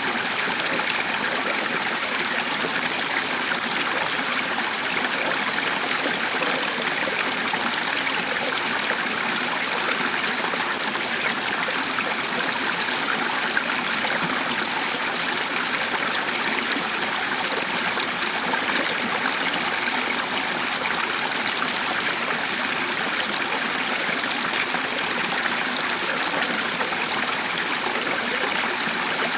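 A stream running steadily: an even, unbroken rush of water.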